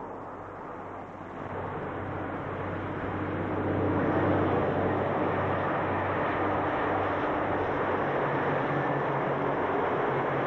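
Diesel-hauled freight train passing: a steady engine drone with the rumble of the train grows louder over the first four seconds, then holds steady.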